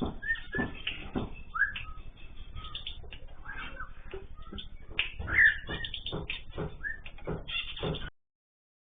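Ornamental cage birds chirping with short rising calls among many quick clicks and knocks, loudest about halfway through. The sound cuts out abruptly to silence about eight seconds in.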